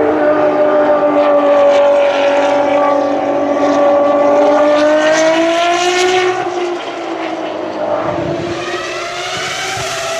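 Ferrari racing car engine at high revs on track, its pitch sagging slightly and then climbing before it fades about two-thirds of the way in. Near the end a second engine comes up, rising in pitch as it accelerates.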